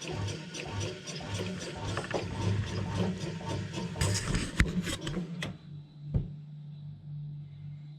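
Panasonic SD255 bread maker's kneading drive, running on a homemade plywood pulley, with a hum and an even ticking of about three a second. It stops about five and a half seconds in after a few sharp clicks, leaving a quieter steady hum.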